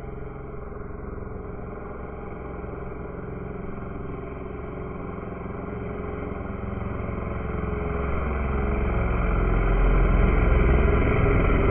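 O.S. GT15 15cc two-stroke gasoline engine of an RC Piper Cub running steadily in flight, growing louder through the second half.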